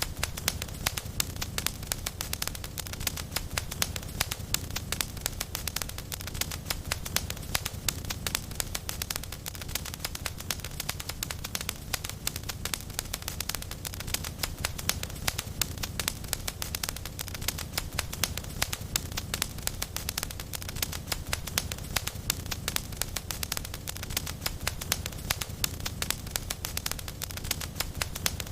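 Wood fire crackling steadily, with many small sharp pops and snaps over a low, even rumble of flames.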